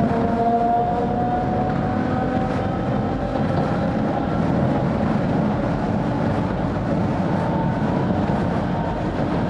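A 762 mm narrow-gauge electric train (Sangi Railway 270 series) running. The rumble of its wheels on the rails carries on steadily under a traction-motor whine that slowly rises in pitch as the train gathers speed.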